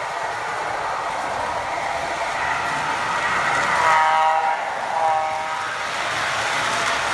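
MTH model NW2 subway work train running, its onboard sound system playing locomotive running sounds, with two short horn toots about four and five seconds in.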